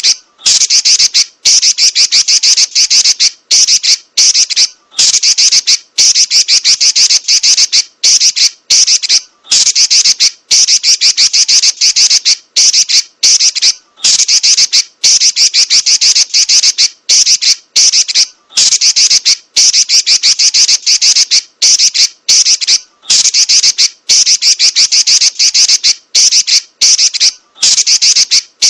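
Female red-billed leiothrix (Pekin robin) giving a loud, fast rattling chatter in runs of one to two seconds, broken by short pauses, over and over.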